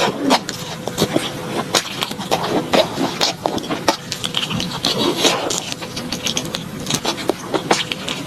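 Close-miked chewing and crunching of crispy fried enoki mushroom skewers, with dense, irregular crackles and wet mouth clicks.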